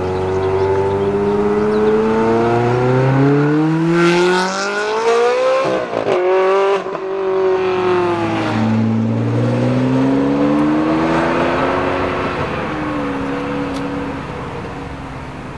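Ferrari 360 Challenge Stradale's 3.6-litre V8 accelerating hard through the gears: the exhaust note climbs in pitch, drops at each upshift and climbs again, with a brief burst of crackle about six seconds in. It fades toward the end as the car pulls away.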